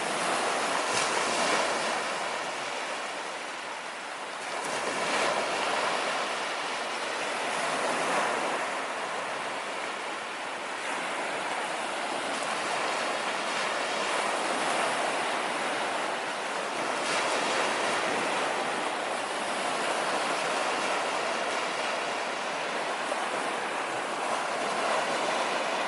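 Sea waves breaking and washing up a beach, the surf swelling and easing every few seconds.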